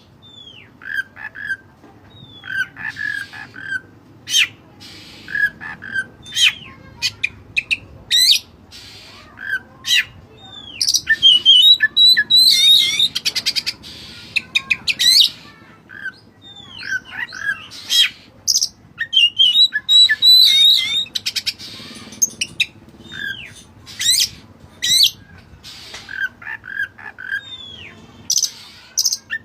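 Oriental magpie-robin (kacer) singing a varied song of short whistles, rising and falling notes, quick chirps and harsh squawks, in phrases separated by short pauses, with two louder, busier runs in the middle.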